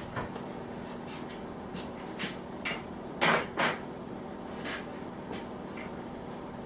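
Scattered knocks and clicks, loudest a pair of sharp bangs about three seconds in, over a steady low hum.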